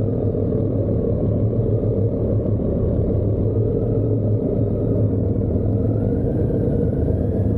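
Steady rumble of wind and motorcycle engine on a microphone carried on a moving motorcycle, with a faint whine that slowly rises and falls in pitch.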